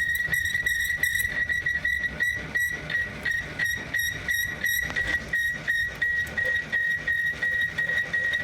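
A workshop machine running with a steady high-pitched whine that pulses about three times a second, over a low rumble.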